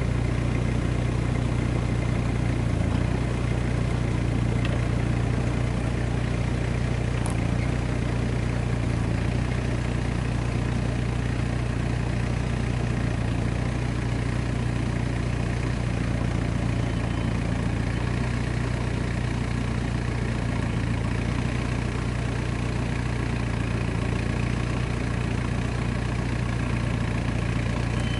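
Jeep Cherokee's engine running steadily at low revs as the vehicle crawls slowly over uneven ground.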